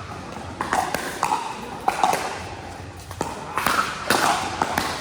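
Pickleball rally: several sharp pocks of paddles striking the plastic ball and the ball bouncing on the court, irregularly spaced, with faint voices behind.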